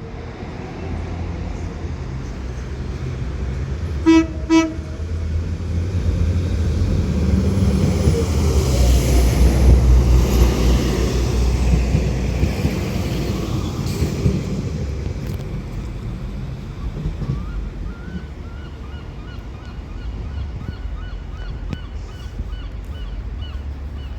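A Northern class 195 diesel multiple unit sounds two short toots on its horn about four seconds in, then its diesel engines rumble, growing louder as it pulls away from the platform and easing off after about twelve seconds.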